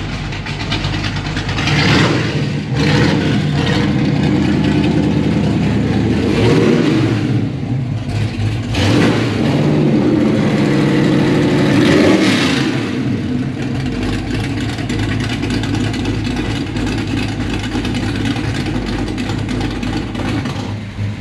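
1967 Chevelle drag car's big-block V8 running, revved up four times in the first half, then idling steadily for the rest.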